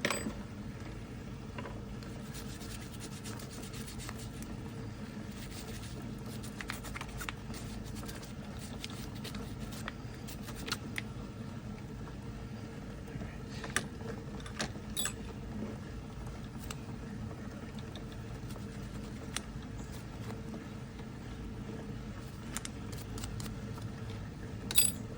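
Small steel depth-gauge parts being handled, giving scattered light clicks and clinks over a steady low hum, with a louder clink near the end.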